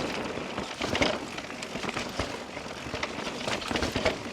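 Mountain bike rolling fast over a rough, rocky and rooty trail: a steady rush of tyre and rolling noise broken by many irregular clicks and knocks as the wheels, chain and frame rattle over the bumps, with a slightly louder knock about a second in.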